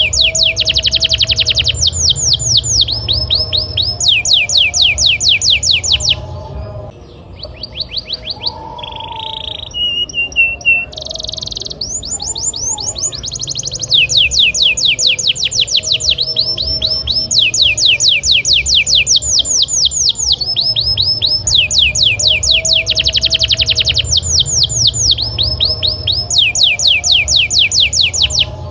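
Domestic canary singing hard, in long rolls: rapid trills of quickly falling notes repeated many times a second. About six seconds in, the song breaks into a few seconds of shorter, varied notes and a lower whistle, then the fast rolls resume.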